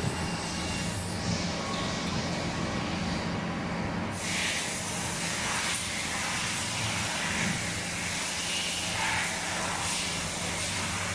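Kuraki KBT 13 DX CNC table-type boring machine running: a steady hum with a hiss over it that becomes brighter and fuller about four seconds in.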